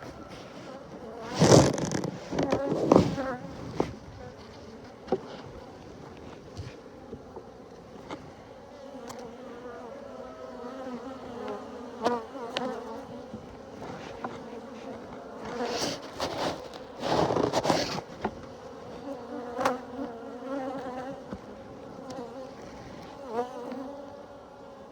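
Honeybees buzzing steadily around an open hive during an inspection, heard from a phone in a bee-suit pocket. Loud rustles and bumps of the suit against the phone cut in about two seconds in and again around sixteen to eighteen seconds.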